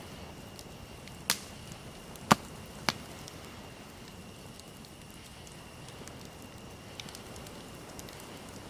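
Wood fire in a fireplace crackling softly, with three sharp loud pops close together in the first few seconds and a smaller pop later.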